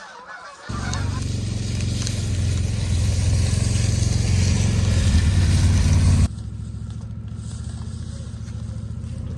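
A vehicle engine running, with a low hum under a loud hissing rush. It cuts in suddenly about a second in and drops abruptly to a quieter steady run about six seconds in.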